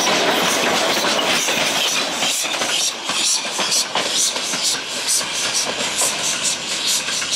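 A train rolling past close by: a dense rush of rolling noise for the first three seconds or so, then a steady clickety-clack of wheels over rail joints, about three clicks a second.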